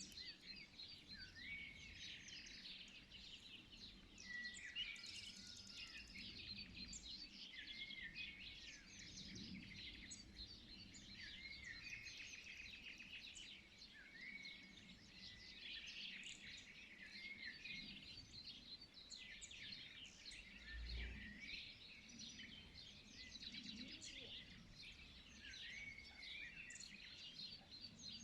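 Dawn chorus of many small songbirds chirping and warbling over one another without a break, over a faint low background rumble.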